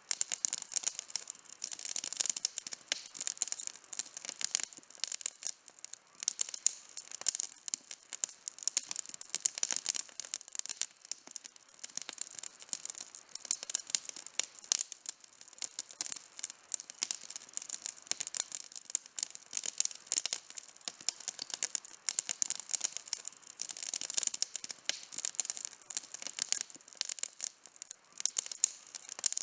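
Campfire burning with dense, continuous crackling and popping of the burning wood.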